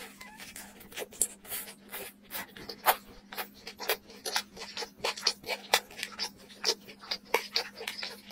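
Close-miked wet chewing and lip-smacking of someone eating a sauce-coated spicy chicken drumstick: a run of sticky mouth clicks, irregular and several a second.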